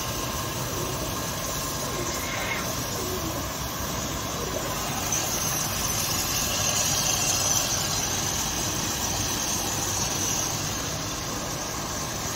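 An engine idling steadily, with a steady hiss over it that swells for a few seconds midway.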